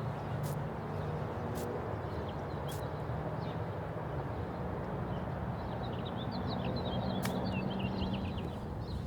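Small birds chirping over a steady low outdoor rumble, the chirps busiest in the last few seconds, with a few faint sharp clicks.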